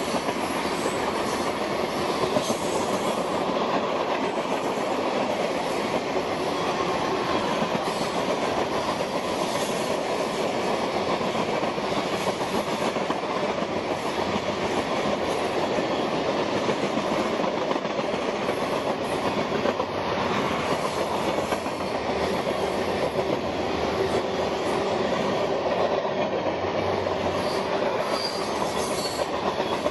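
Freight train of tank cars and covered hopper cars rolling past, a steady, unbroken noise of steel wheels running on the rails.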